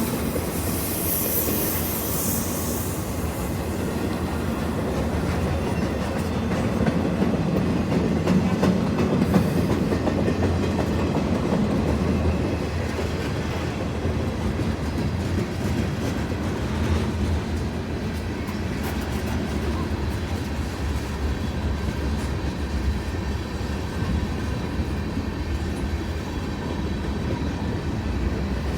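Norfolk Southern freight train's cars rolling past, a steady rumble of steel wheels on rail with rhythmic clicking over the rail joints. A brief high hiss sounds in the first few seconds.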